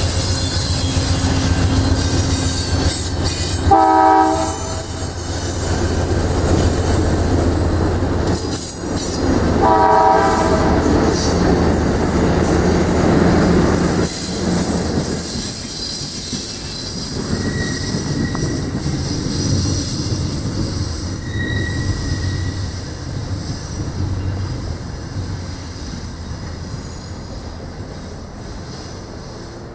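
Diesel-hauled train passing with a steady low rumble. A horn sounds a short blast about four seconds in and a longer one about ten seconds in, then the cars roll by with brief wheel squeals and the sound slowly fades.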